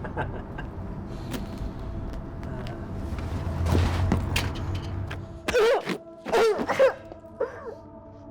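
A film soundtrack: a low rumble under a held musical drone swells over the first few seconds. Then gulls cry, three loud calls about five and a half to seven seconds in, with a fainter one after.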